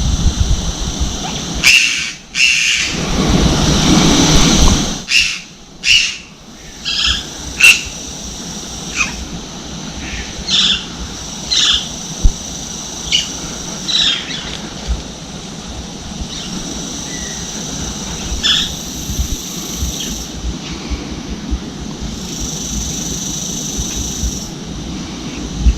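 A bird calling with short, high chirps repeated about once a second, over a steady low rush of outdoor noise; the chirps die away in the second half.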